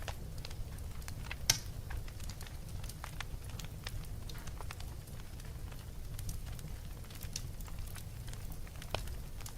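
Wood fire crackling: scattered sharp pops and snaps over a steady low rumble, with one loud pop about a second and a half in and another near the end.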